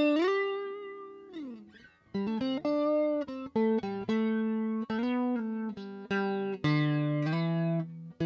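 Electric guitar played through a JHS 3 Series Flanger pedal: a held note bent up at the start slides down and fades, then from about two seconds in a melodic run of picked single notes and double-stops.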